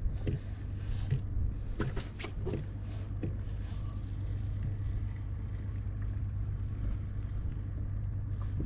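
Steady low wind rumble on the microphone, with a few light clicks and rattles in the first couple of seconds.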